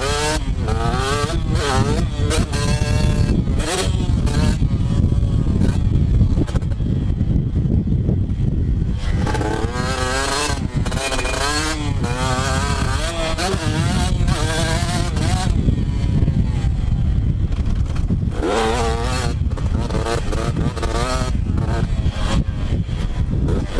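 Two-stroke motocross bike ridden hard around a track, its engine revving up and dropping back again and again as the rider works the throttle and gears.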